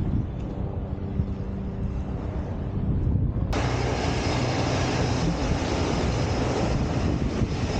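Helicopter engine and rotor running: a steady low hum that switches abruptly, about three and a half seconds in, to a louder, fuller rushing engine noise.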